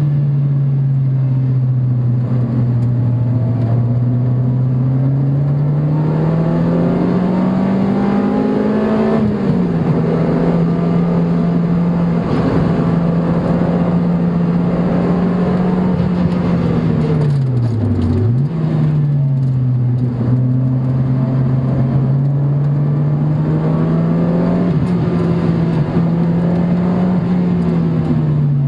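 Car engine driven hard on a race track, heard from inside the cabin over wind and road noise. The engine note climbs for several seconds and then falls off abruptly. About two-thirds of the way through it dips very low and snaps back up, and near the end it climbs again and drops.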